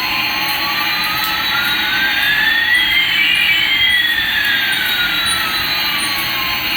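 Electronic jet-engine sound effect from a toy Airbus A380: a steady hiss with one whine rising while another falls, the two crossing about halfway through.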